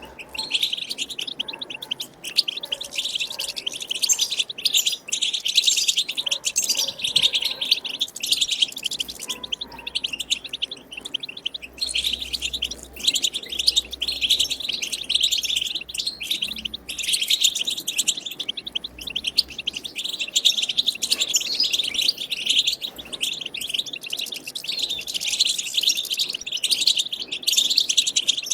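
European goldfinch singing its twittering song, a continuous rapid chatter of high, tinkling notes with only brief pauses.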